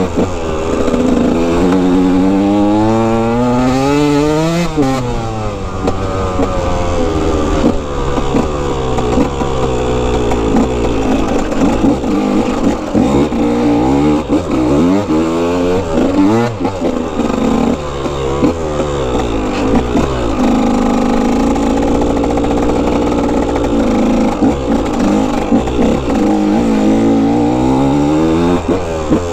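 125 cc two-stroke dirt bike engine revving hard as it rides, its pitch climbing and dropping again and again with throttle and gear changes.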